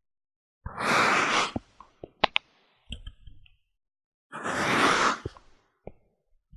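Kinetic sand being worked with a tool: two long gritty crunching swishes about three and a half seconds apart, with a couple of sharp clicks and small ticks between them.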